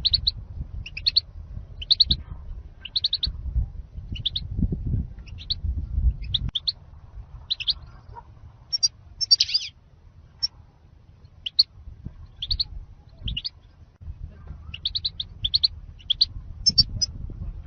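European goldfinch song: short, bright chirps and twittering notes in quick groups, thinning out for a few seconds past the middle, with a low rumble underneath in the first part.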